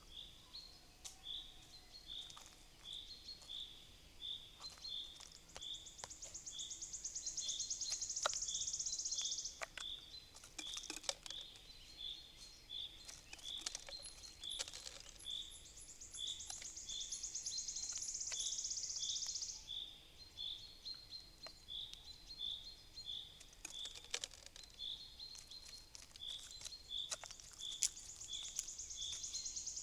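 Wild woodland songbirds singing: one bird repeats a short high note about twice a second throughout, while another sings a long, rapid high trill three times, each lasting several seconds. Scattered sharp taps and clicks come in between.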